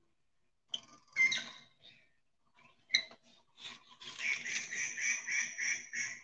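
A bird chirping, a run of high squeaky notes about three a second, after a few knocks and rustles from the phone being handled.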